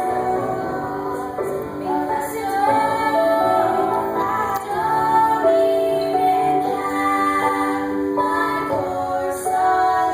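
Music with a woman singing, her voice holding and stepping between sustained notes.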